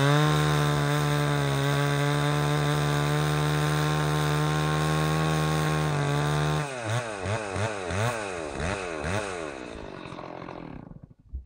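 Stihl 038 Magnum two-stroke chainsaw held at full throttle for about six seconds, cutting through a tree trunk. It is then revved up and down in about six quick blips as it comes out of the cut, and dies away near the end.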